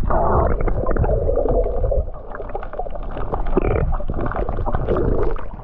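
Muffled underwater rumbling and bubbling from a microphone under the water as a swimmer ducks his head under, with many small clicks and gurgles.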